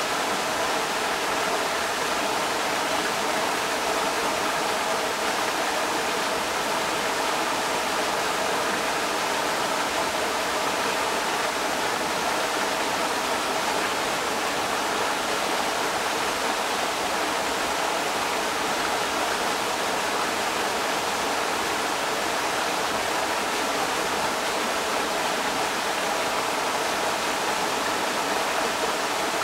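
A creek's water rushing steadily, an even unbroken rush with no breaks or changes.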